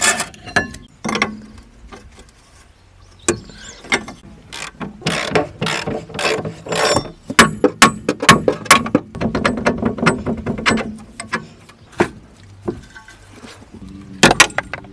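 Ratchet wrench clicking in quick runs, mixed with metal knocks and clanks of tools and parts while bolts are worked loose on a car's front suspension. The clicking is busiest in the middle stretch.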